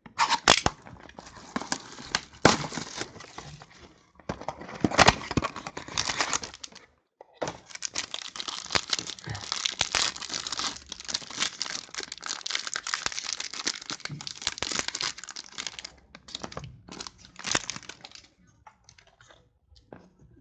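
Plastic wrapping and card packaging crinkling and tearing as a sealed box of football trading cards is opened, a dense crackle of small snaps. It breaks off briefly about four seconds in and again about seven seconds in, and thins out near the end.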